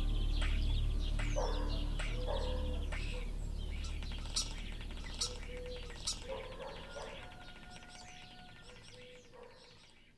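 Birds chirping and calling over a low steady rumble, the whole ambience fading out gradually to near silence by the end.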